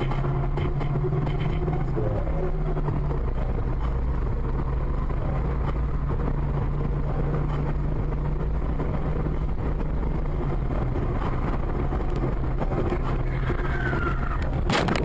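Car engine running with steady road noise, recorded from inside a moving car; the engine note drops about two seconds in.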